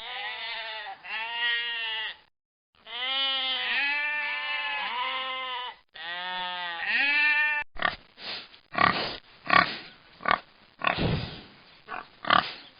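Sheep bleating in several long, wavering calls, broken by a short pause, then a pig grunting in short grunts about twice a second from around eight seconds in.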